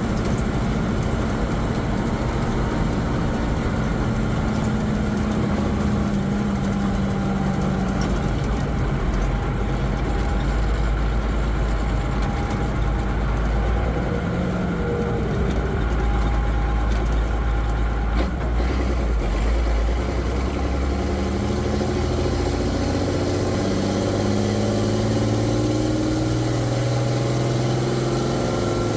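M35A2 Deuce and a Half military truck's diesel engine and drivetrain heard from inside the cab while driving. The engine note sags around the middle, then climbs steadily as the truck accelerates and drops again right at the end.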